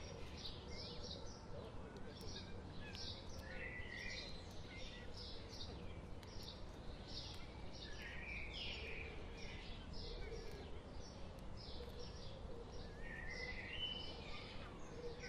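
Small birds singing: a run of short high notes repeating about twice a second, with a lower warbled phrase returning every four or five seconds, over a steady low outdoor rumble.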